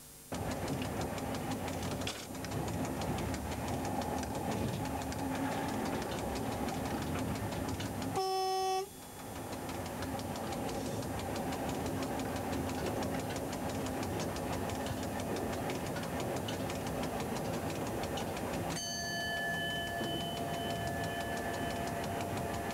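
Train running along the track, heard from the driver's cab as a steady running noise. About 8 seconds in, a short pitched tone sounds for under a second. From about 19 seconds, a steady ringing tone sounds over the running noise until the end.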